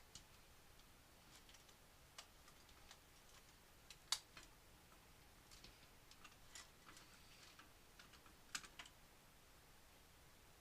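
Faint, scattered clicks and light taps of small hard parts being handled, with a sharper click about four seconds in and another near eight and a half seconds.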